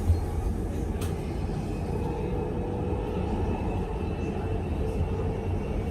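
Interior of a Melbourne suburban electric train running between stations: a steady low rumble with a constant hum and a faint whine, and a short click about a second in.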